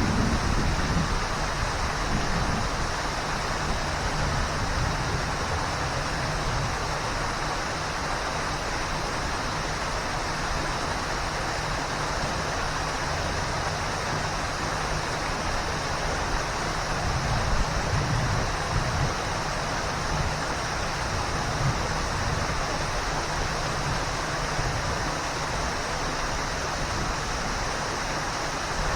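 Waterfall: a steady rush of falling water with a deep low rumble underneath, unbroken throughout.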